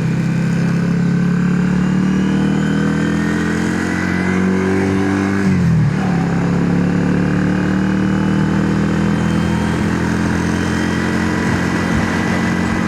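Yamaha XVS650's air-cooled V-twin engine pulling at road speed, its pitch climbing slowly, with one gear change about five and a half seconds in where the pitch dips and then steadies.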